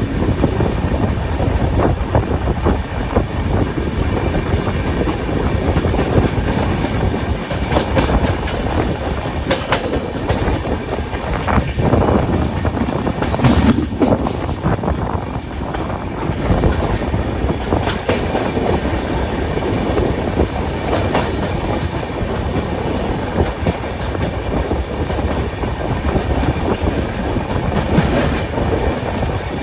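Ashokapuram Express passenger train running at speed, its steel wheels clicking over the rail joints against a steady rumble.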